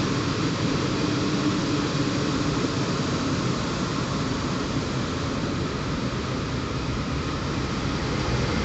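Steady rushing, rumbling noise of an electric multiple unit commuter train approaching and running into the platform.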